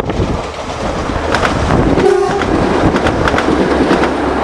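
TransPennine Express passenger train passing close by on the adjacent track: a loud, steady rush of wheel and running noise, with a brief steady tone about two seconds in.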